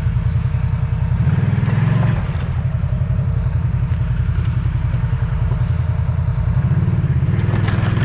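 Single-cylinder-type off-road vehicle engine running under way with a steady low pulse. It picks up under throttle about a second in and again near the end.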